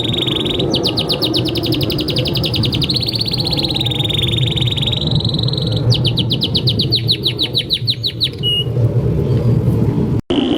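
Domestic canary singing a long rolling song: held whistled notes alternating with two runs of fast rapid-fire trills, over steady low background noise. The sound cuts out for an instant near the end.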